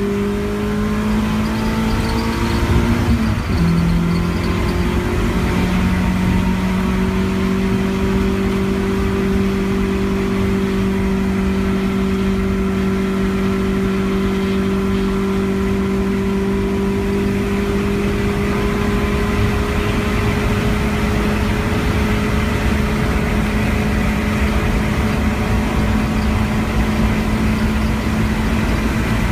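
A 1987 Honda CR-X Si's engine pulling hard under full throttle, heard from inside the cabin over road and wind noise. The revs climb, drop at one upshift about three seconds in, then rise slowly and steadily as the car gathers speed on a long straight.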